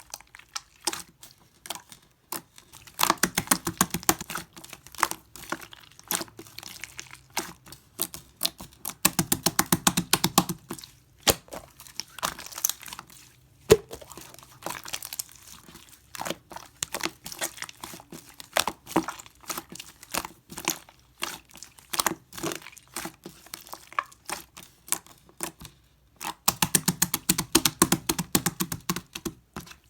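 Pearl slime squeezed and poked by hand, giving rapid trains of sticky clicks and pops, with three louder, faster bursts: about three seconds in, about nine seconds in, and near the end.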